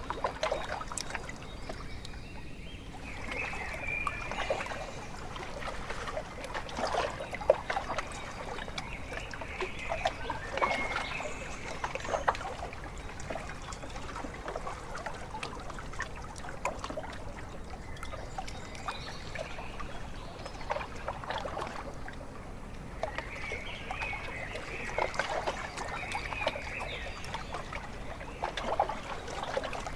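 Small lake waves lapping and splashing irregularly against the shore, with faint bird calls now and then.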